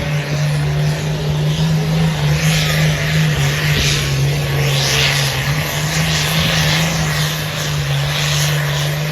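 Diesel engine running hard at steady high revs, a loud constant drone that shifts a little in pitch, with rushing surges over it.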